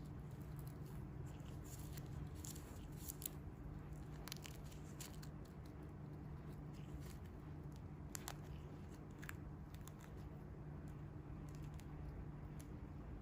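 Faint, irregular crackles and clicks of close-up hand handling, likely plastic or packaging, over a steady low hum. The crackles come thickest in the first half and thin out near the end.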